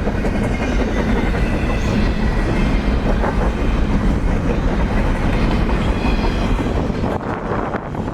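A train running on its rails: a loud, steady rumble and rail noise, thinning a little near the end.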